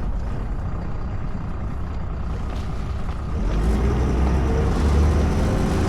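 Motorboat engine running with water and wind noise; about three and a half seconds in it grows louder and its pitch slowly rises as the boat speeds up.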